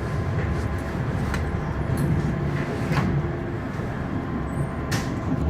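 Frankfurt U-Bahn light-rail train heard from inside the car: a steady low rumble and hum with a few light clicks and knocks.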